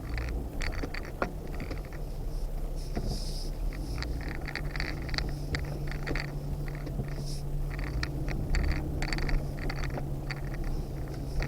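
Off-road vehicle creeping over a rough trail: a steady low engine hum with scattered knocks, clicks and rattles from the rough ground.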